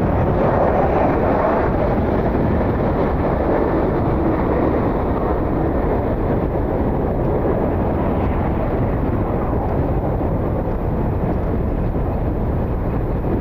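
Jet airliner engines running, slowly fading, with gusty wind buffeting the microphone.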